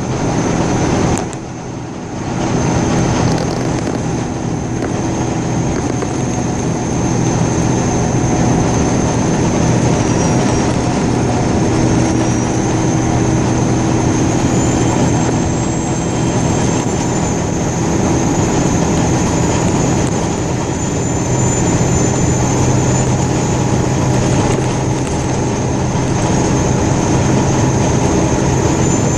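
Motor vehicle running steadily, a low engine hum with road noise and a faint high whine, with a brief dip about a second in.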